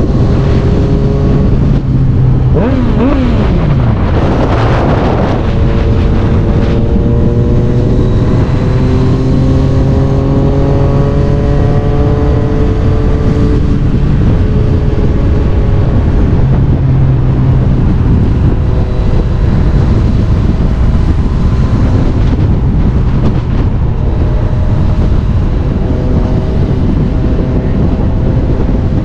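Yamaha MT-09 three-cylinder motorcycle engine running at highway speed, its note climbing gradually for several seconds as the bike pulls, under heavy wind rush on the microphone.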